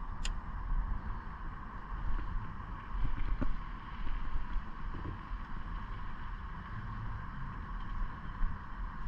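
Low, steady rumble of wind on the microphone on open water, with a faint constant hum and a sharp click just after the start.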